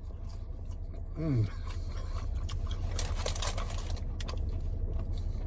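Eating sounds: a brief hummed 'mm' about a second in, then scattered clicks and a crunchy, crackly rustle near the middle, over a steady low hum.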